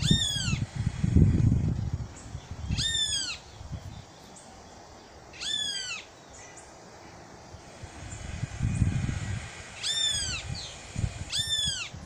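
Chestnut-capped blackbird (garibaldi) calling: five short, nasal notes that rise and fall, repeated every few seconds. A low rumble comes and goes beneath them.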